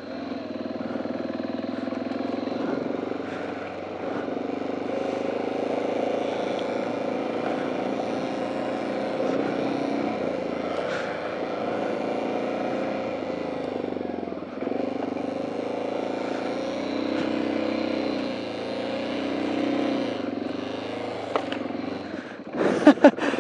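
BMW G650GS single-cylinder engine running at low speed on a rough track, its pitch rising and falling with the throttle, with a few brief knocks.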